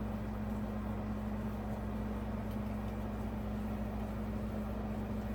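Room air conditioner running with a steady hum and a constant low tone.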